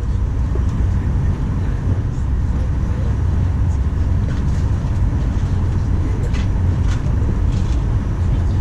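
Steady low rumble in the cabin of a Boeing 737-900 rolling on the ground, with a few faint light rattles from the cabin.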